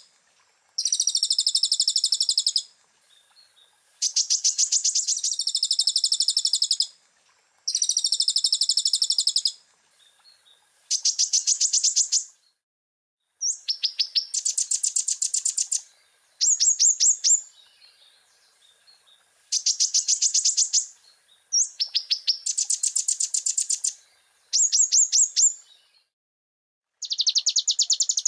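Olive-backed sunbird (kolibri ninja) singing: rapid, high-pitched trilled and chattering phrases about one to two seconds long, repeated with short pauses between them.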